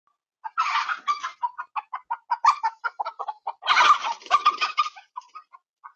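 Chickens clucking and squawking in a run of short calls, with a burst of loud squawking about half a second in and another near four seconds in.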